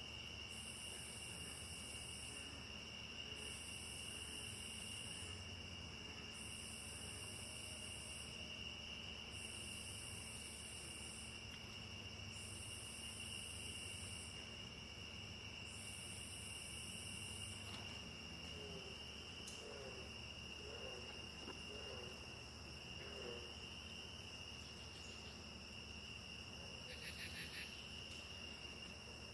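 Rainforest insects at a faint level: a steady high-pitched insect chorus at two pitches, with another insect buzzing in regular bouts about every three seconds that stop about two-thirds of the way in. A few low wavering calls come in the middle, and a brief rattling trill sounds near the end.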